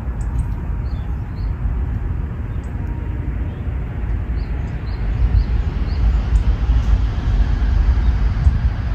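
Outdoor ambience made mostly of a low, uneven rumble that grows louder about five seconds in, with small birds chirping faintly in short calls throughout.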